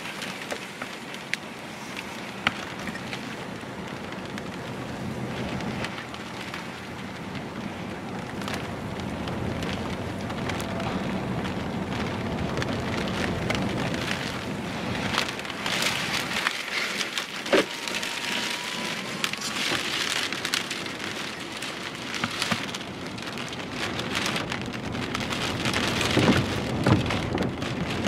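Rain from a supercell thunderstorm pattering on a car's windshield, heard from inside the car. It grows steadily heavier, with scattered sharp drop hits.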